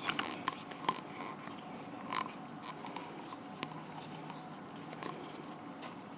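Garbage disposal parts being handled and test-fitted by hand: a few faint clicks and light rubbing.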